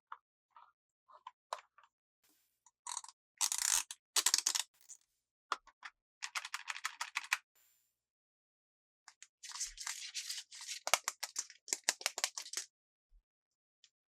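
Toy packaging being handled: a few small clicks and taps, then three bursts of crinkling and rustling plastic and cardboard, each a few seconds long, the last full of quick crackles.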